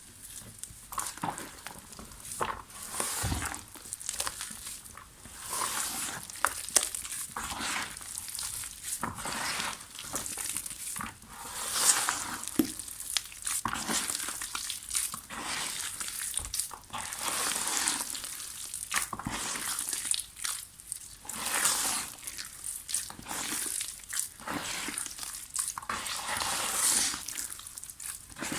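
Dry soft mud lumps being crumbled: dense, irregular gritty crackling and crunching that swells and fades every second or two, with scattered sharp little snaps.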